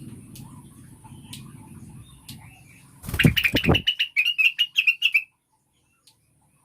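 Cucak wilis (blue-winged leafbird) call, the female's call used to lure a male into song: a rapid run of high chattering notes about three seconds in, lasting about two seconds, opened by a few loud low thumps. Before it, a low rumbling background with faint chirps.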